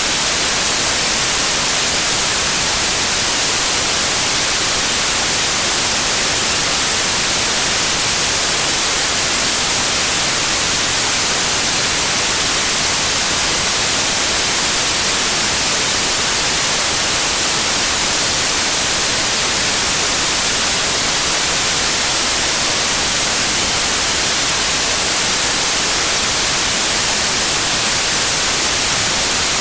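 Steady synthetic noise signal: a loud, even, unchanging hiss with no events in it, carrying more energy in the highs than the lows.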